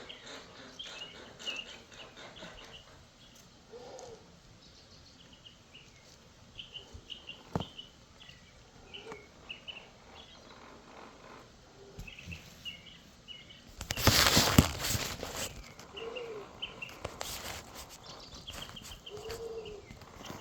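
Birds chirping over and over in short high notes, with a few sharp clicks of handling. About fourteen seconds in there is a loud rustling burst lasting a second or two.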